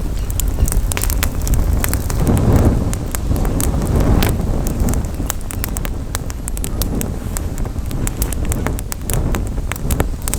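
Wood campfire crackling, with many sharp irregular pops and snaps, over a low rumble of wind on the microphone that swells a couple of seconds in.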